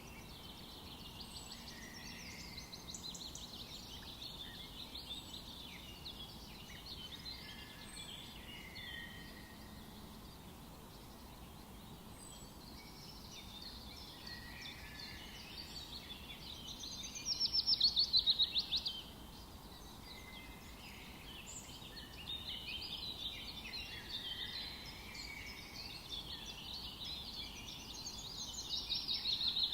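Several songbirds singing in a forest over a steady low background hiss. A loud rapid trill of notes falling in pitch comes about seventeen seconds in and again near the end, with short high chips every few seconds.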